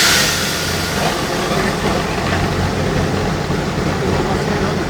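Tatra 813's air-cooled V12 diesel engine running steadily at low revs. A loud hiss of released air dies away in the first half second.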